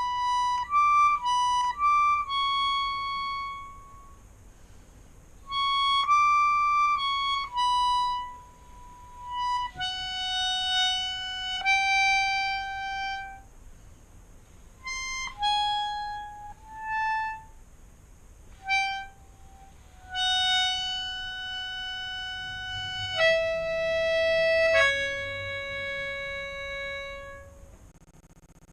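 Melodica playing a slow improvised melody, one sustained note at a time, in short phrases with pauses between them; the last long low note ends near the close.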